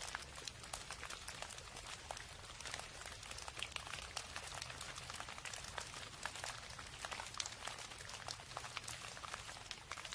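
Steady rain, with many close, irregular drop ticks hitting a surface over a steady low rumble.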